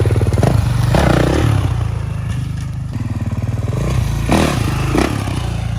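Dirt bike engine running steadily, with a few short noisy bursts over it.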